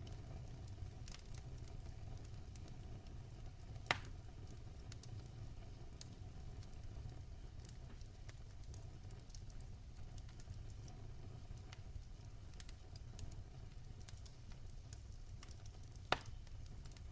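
Wood fire burning in a fireplace: a steady low rumble with scattered small crackles, and two louder pops, one about four seconds in and one near the end.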